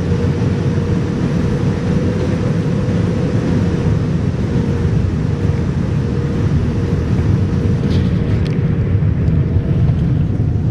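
Steady in-flight cabin noise of a Boeing 787-9: a constant low rumble of engines and airflow with a faint steady hum, and a couple of small clicks near the end.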